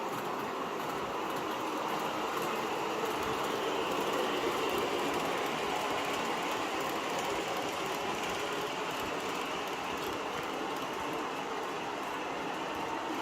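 MTH O-scale R-40 subway train set running steadily between stops, a continuous rolling rumble with a light clicking of wheels over the track.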